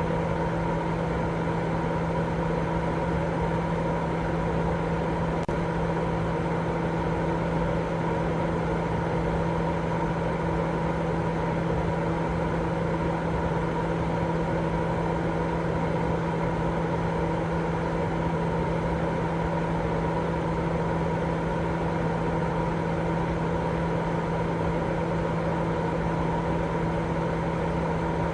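Steady, unchanging sleep-aid noise: a dense rushing sound, heavier at the low end, with a constant low hum running through it, like a running machine.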